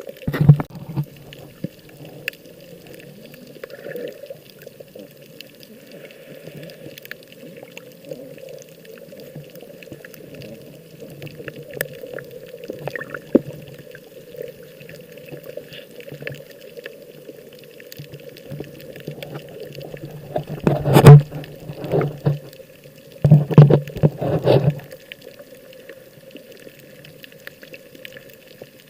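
Sea water sloshing and splashing, heard muffled with most of the sound low and dull. There are loud splashes near the start and again about two-thirds of the way through.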